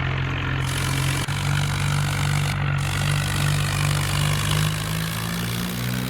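Swaraj tractor's diesel engine running steadily, its pitch rising slightly near the end as it picks up revs.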